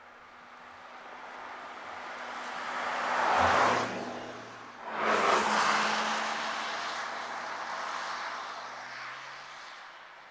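Porsche Taycan electric car passing at speed twice in quick succession, almost all tyre and wind rush with no engine note. The first pass swells to a peak and falls away; the second starts abruptly and fades out slowly.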